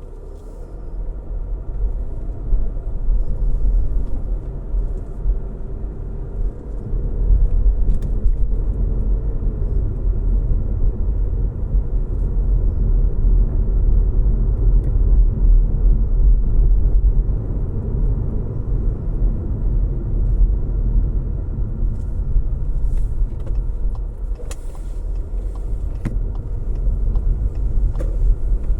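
Car driving on the road: a steady low rumble of road and engine noise with a faint hum above it. It swells in the first couple of seconds, and a few faint ticks come near the end.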